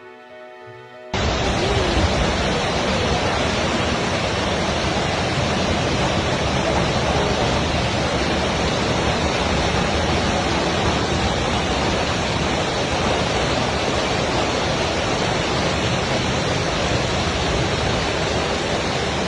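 Torrential rain pouring down, a loud steady hiss that cuts in abruptly about a second in.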